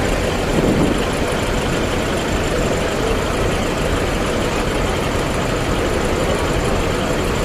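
Heavy diesel truck engines running steadily at idle.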